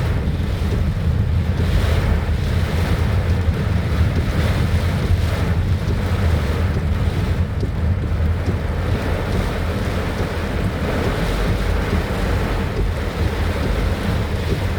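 Strong wind buffeting the microphone as a steady low rumble, over the constant hiss of heavy rain.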